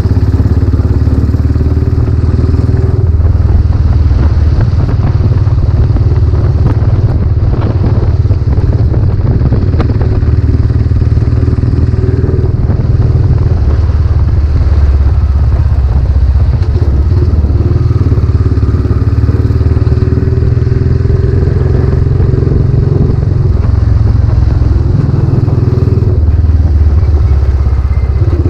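Royal Enfield Classic 500's single-cylinder engine running loudly through a new aftermarket silencer while riding, its note rising and falling with the throttle several times.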